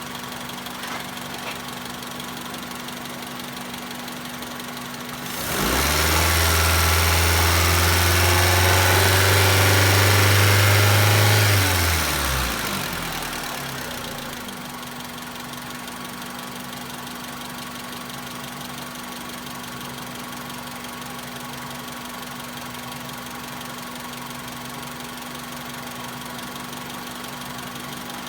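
2001 Honda Civic's four-cylinder engine idling, then revved up about five seconds in and held at high revs for about six seconds before dropping back to a steady idle.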